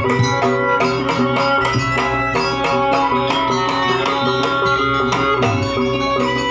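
Traditional Javanese jaranan ensemble music with hand drumming and sustained pitched instruments, playing a steady, busy rhythm.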